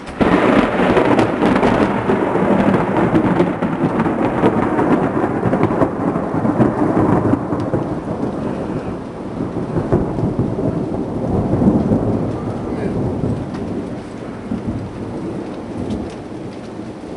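Thunder from a nearby lightning strike: it starts suddenly and loud, rumbles on for several seconds, then slowly fades, over steady rain.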